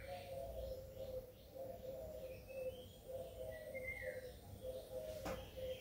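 Background birds giving short, faint falling chirps, over a low note that pulses a couple of times a second. One sharp click near the end.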